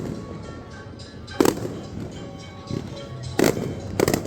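Fireworks exploding: a sharp bang about a second and a half in, another about three and a half seconds in, and a quick double bang near the end, with music playing underneath.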